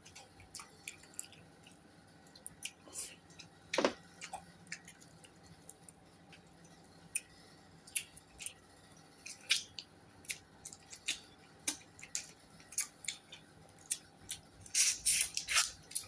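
A person eating: irregular wet smacks and clicks of chewing, with a quick run of louder ones near the end.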